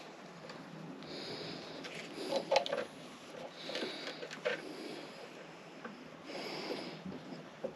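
A man breathing hard, a few breaths close to the microphone, with a few sharp metallic clicks and clinks of tools and fittings, the loudest about two and a half seconds in.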